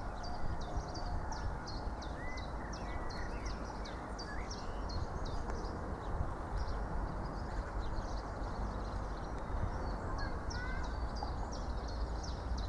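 A small bird chirping over and over, short high calls about two a second, with a few lower whistled notes, over a steady low outdoor rumble.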